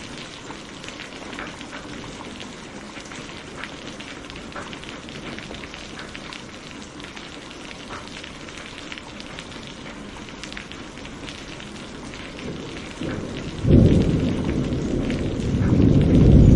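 Steady rain on a window, with scattered sharp drop ticks over an even hiss. Near the end a loud, low rumble of thunder breaks in and swells again.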